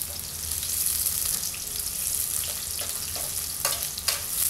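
Chopped garlic and onion sizzling in hot oil in a pan while a slotted spatula stirs and scrapes through them, with two sharper scrapes near the end.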